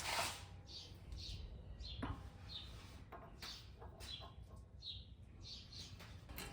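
Faint, irregular chirping of small birds, with a few light clicks.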